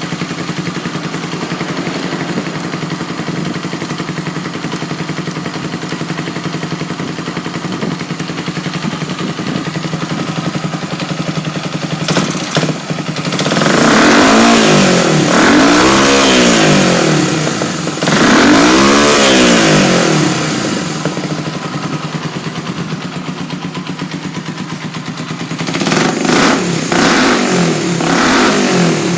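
Honda CB250RS-Z's single-cylinder four-stroke engine idling steadily, then revved up and let fall back three times in a row. It settles back to idle, then gets several quick throttle blips near the end.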